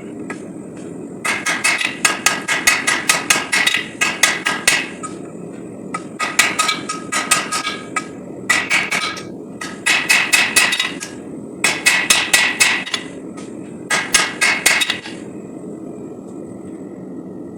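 Hand hammer striking hot SAE 5160 steel on an anvil in fast, even blows, in six runs of one to three and a half seconds, ending about 15 seconds in. A steady low roar sits underneath throughout.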